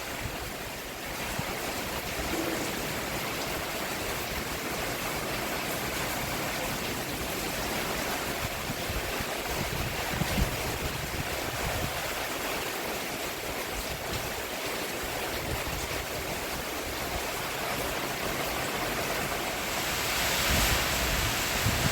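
Steady rain falling on a roof, an even hiss that swells slightly near the end.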